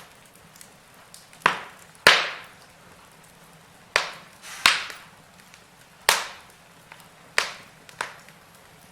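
Fire burning in a fireplace, giving about seven sharp crackling pops at irregular intervals over a faint steady hiss. The loudest pops come about two seconds in and just before the halfway point.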